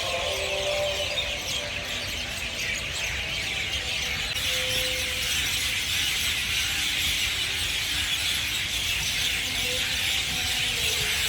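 A dense, steady chorus of many birds chirping and twittering over a low background hum.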